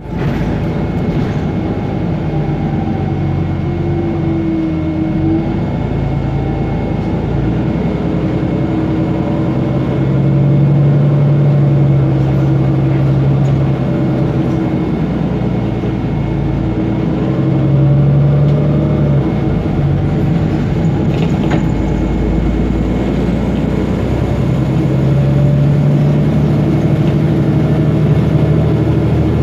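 Otokar Kent LF city bus running, its Ford Ecotorq diesel engine droning and swelling several times as it pulls. A whine from the Voith DIWA automatic gearbox rises and falls over it.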